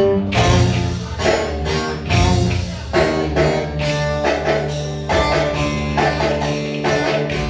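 Instrumental Ankara oyun havası (Ankara folk dance tune): a plucked-string melody over a steady beat of drum and tambourine.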